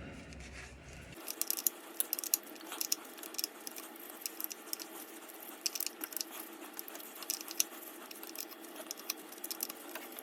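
Wrench turning out a 10 mm bolt on the starter cover under the car: irregular light metallic clicks and taps, over a faint steady hum.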